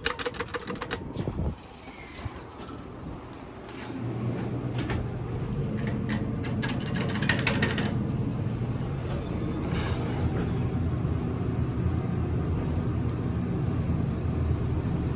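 Montgomery traction elevator: a quick run of clicks and clatter near the start, then from about four seconds in the steady hum of the car travelling in the shaft, with a few more clicks partway through.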